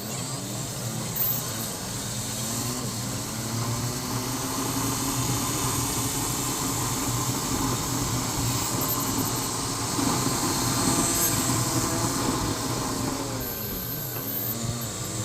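Motorcycle engine running on the move, its pitch climbing slowly as it speeds up and dropping near the end as it slows, over steady road and wind noise.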